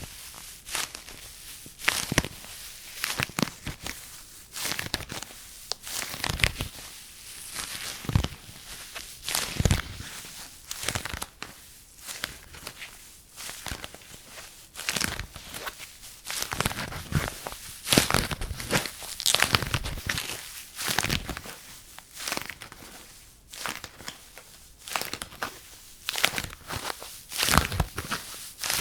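Close-miked ASMR sounds: irregular taps and crinkly, scratchy rustling, several strokes a second and uneven in strength.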